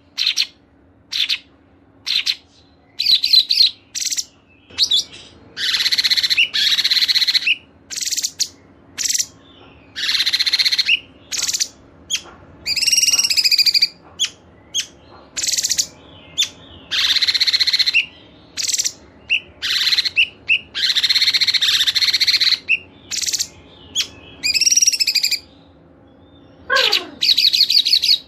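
Cage songbirds singing in separate bursts: quick high chirps and trills alternating with longer, fuller song phrases about a second long, with short pauses between them. Near the end comes one falling note.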